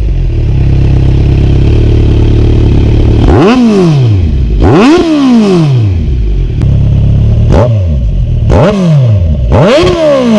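2019 Kawasaki Z900's inline-four engine, breathing through a Delkevic full-system exhaust, idling after a cold start and blipped about five times. Each rev shoots up sharply and falls straight back to idle; the fourth one in is smaller.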